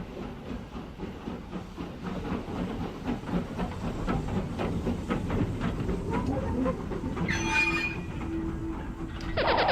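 Train rolling on rails with clacking wheel clicks and rumble, growing louder as it comes closer. A sudden loud sound with falling tones starts just before the end.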